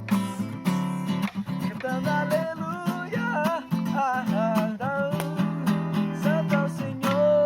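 Acoustic guitar strummed steadily under a voice singing a worship song in Portuguese.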